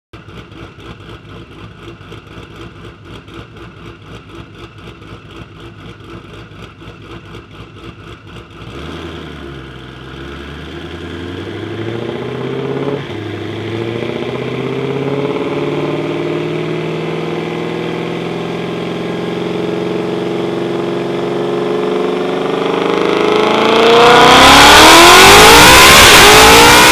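Ford Mustang GT500's supercharged V8 exhaust, first idling with an even, pulsing beat. About nine seconds in it starts accelerating, its pitch climbing in steps as it pulls through the revs. It reaches its loudest in a hard full-throttle rush near the end.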